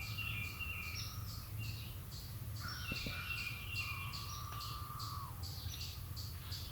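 A distant chorus of periodical cicadas: a wavering drone with evenly repeating pulses, with birds chirping over it.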